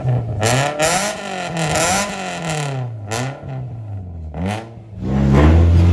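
Toyota Altezza's 3S-GE four-cylinder engine revving up and down several times through a new twin box-section exhaust. About five seconds in it gets louder and settles on a steady low note.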